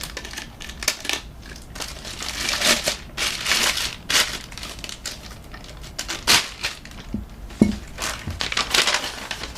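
Packaging crinkling, rustling and tearing in irregular bursts of handling noise as new faucets are unwrapped and taken apart.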